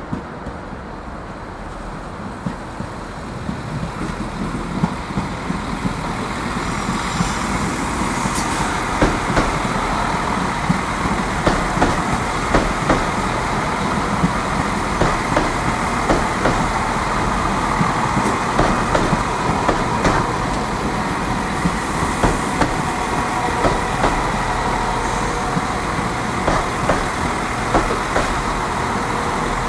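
Irish Rail 22000 class diesel multiple unit rolling past, growing louder over the first six seconds and then running steadily, with its wheels clicking sharply over rail joints and points many times.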